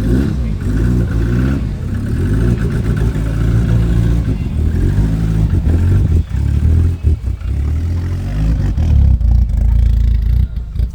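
A car engine running and being revved, its pitch rising and falling, with a few brief dips in level about six to seven seconds in.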